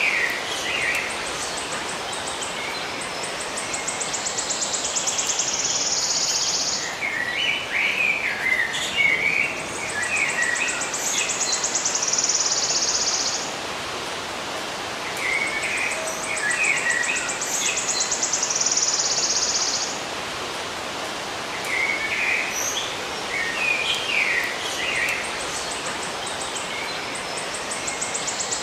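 Songbirds chirping in short clusters, alternating with a long, high, buzzing trill, the pattern repeating about every seven seconds over a steady background hiss.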